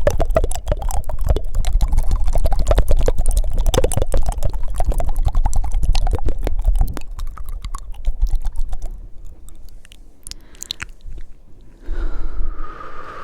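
Fast, wet mouth sounds right against the microphone: rapid tongue flutters and clicks that thin out to a few scattered clicks after about seven seconds, then a breath near the end.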